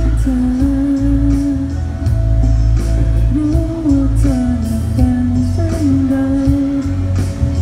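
Live pop song: a male voice singing a slow, held melody over a band with guitar and heavy bass.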